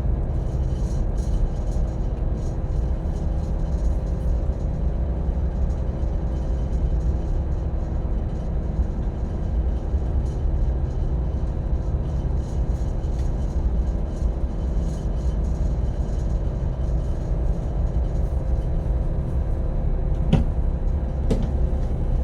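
Steady low engine drone of a boat underway, with wind and sea noise. Two short knocks come near the end.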